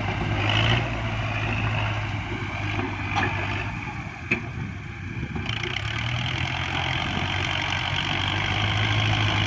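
Kubota farm tractor's diesel engine running steadily, easing off briefly about halfway through before coming back up, with a sharp knock a little before the middle.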